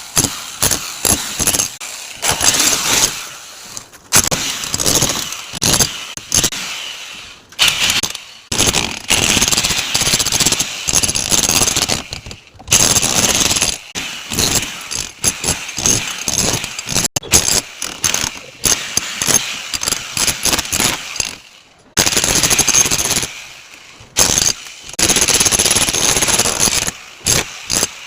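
Power chipping hammer rattling into a wall, chiselling out the chase for plumbing pipes, in bursts of one to three seconds separated by short pauses.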